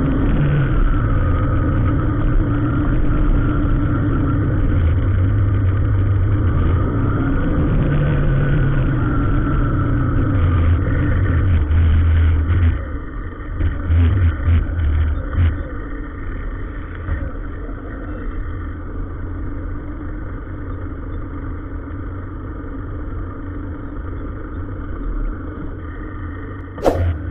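A motor vehicle's engine running in slow traffic, its pitch rising and falling at times. It is loudest for the first dozen seconds, then quieter. A sharp metallic clang comes near the end.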